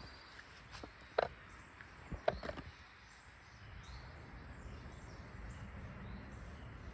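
Footsteps of a person walking outdoors, a handful of sharp irregular steps in the first half, then a steady low rumble.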